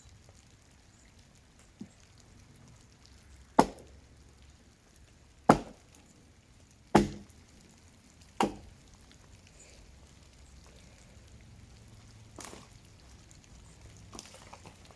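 Axe blows chopping into a dead tree: four loud, sharp strikes about one and a half to two seconds apart, then two fainter knocks near the end.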